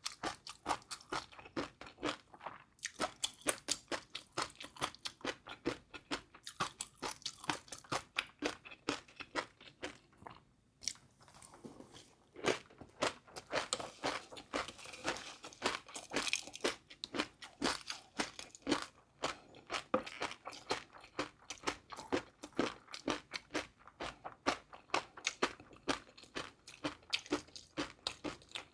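Close-miked crunching and chewing of crunchy food: rapid, sharp crunches, several a second. There is a brief lull about ten seconds in.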